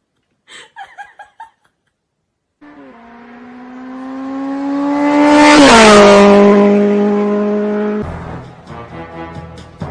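A fast car's engine passing by: a steady, high engine note grows louder for about three seconds, drops sharply in pitch as it goes past, then cuts off abruptly.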